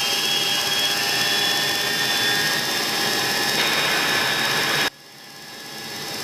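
Boeing E-3 Sentry's four TF33 turbofan engines at takeoff power, heard from the flight deck: a steady jet rush with a high whine that slowly rises in pitch. The sound drops sharply about five seconds in and then swells back up.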